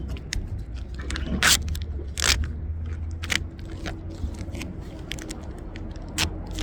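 Greenhouse plastic film crackling and scraping as it is handled, in scattered sharp clicks with two louder crinkles about one and a half and two and a half seconds in, over a steady low rumble.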